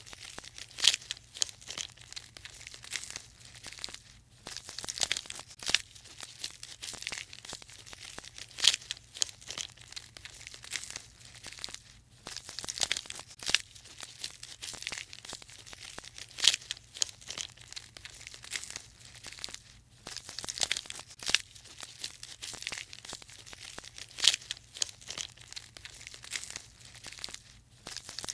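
Irregular crisp crunching and rustling: clusters of sharp snaps and crackles coming in bursts every second or two, a few much louder than the rest.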